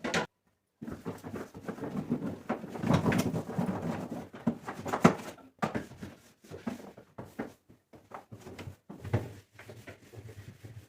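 Irregular clatter and rubbing of items being handled and wiped inside a refrigerator, with a run of knocks and scraping in the first half that thins out to occasional knocks.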